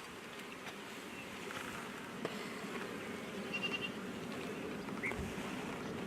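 Honey bees buzzing as a steady, many-bee hum around an opened hive. A couple of faint, short high chirps sound over it midway and near the end.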